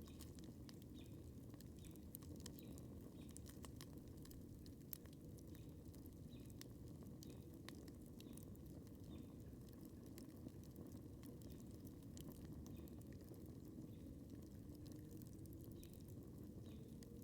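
Wood campfire crackling faintly: scattered sharp pops and ticks, one louder pop about five seconds in, over a low steady rush.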